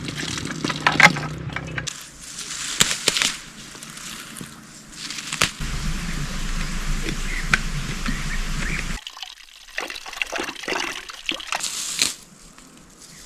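Water trickling and pouring, in short stretches that change abruptly, with scattered sharp clicks and knocks.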